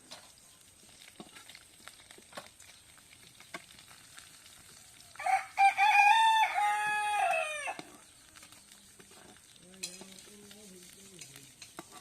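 A rooster crows once, a long loud call of about two and a half seconds in the middle, dropping in pitch at its end. Light clicks and scrapes of stirring in a cooking pot run underneath.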